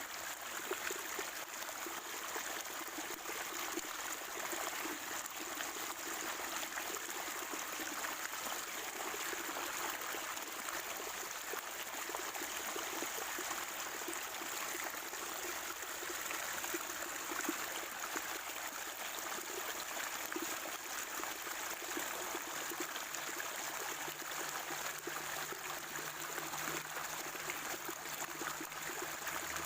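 Natural spring water flowing in a small stream, a steady gurgling trickle.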